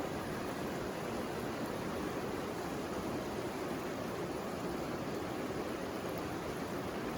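A river flowing with a steady rushing sound.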